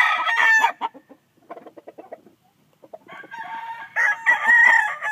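Gamecocks crowing: one crow ends with a falling tail about a second in, a few short clucks follow, and a second crow starts about three seconds in and is still being held at the end.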